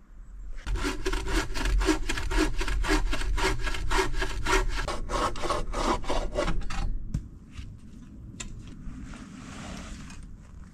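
Hand saw cutting through wood in quick, even strokes, about four a second, stopping about seven seconds in. A few light knocks and rustling follow.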